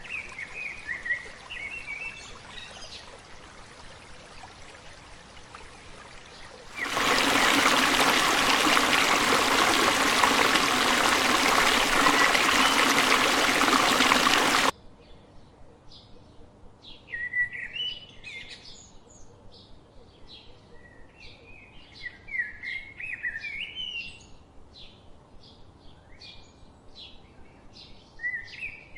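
Songbirds chirping and calling in short bright phrases, over a steady run of regular ticking notes. About seven seconds in, a loud even rushing noise, like running water, comes in and cuts off suddenly about eight seconds later.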